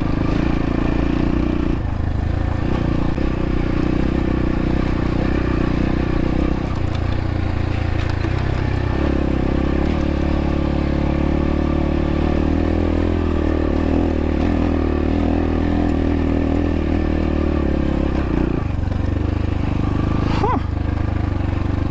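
X-Pro Templar X 250 dirt bike engine running steadily at low revs on rough trail, its pitch shifting up and down a few times as the throttle changes.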